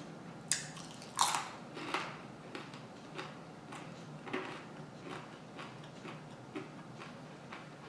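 A person biting into and chewing a grinder salad sandwich close to the microphone: two crisp bites about half a second and a second in, then softer chewing.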